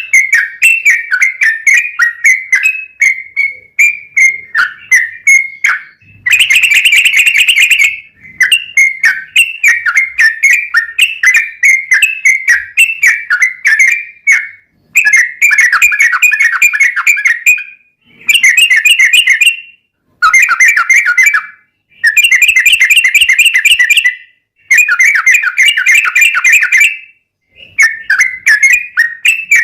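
Sooty-headed bulbul (trucuk) singing a fast, non-stop run of short whistled notes, broken about six times by dense, rapid rolling trills a couple of seconds long.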